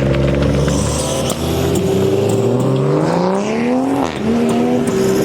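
Car engine revving: its pitch climbs steadily for about three seconds, drops sharply, then holds a steady note.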